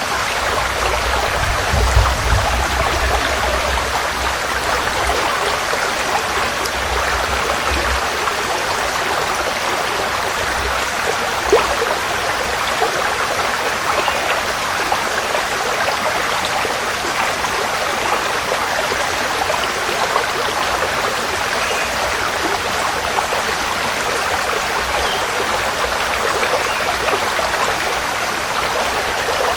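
Forest stream flowing steadily over rocks: a constant rushing, babbling water noise, with a low rumble underneath for the first several seconds.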